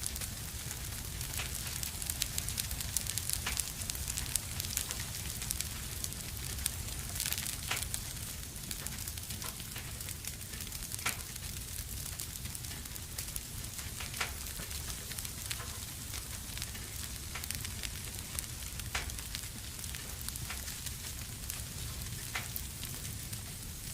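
A fire burning in a fireplace: a steady hiss and low rumble, with irregular crackles and pops, more frequent in the first several seconds.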